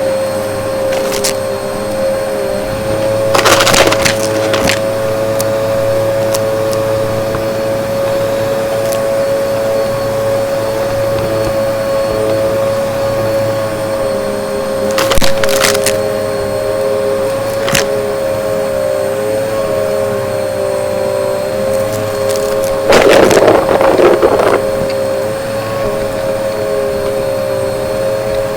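Vacuum cleaner running with a steady motor whine, with three loud bursts of crackling as crunchy debris is sucked up, the last one the longest.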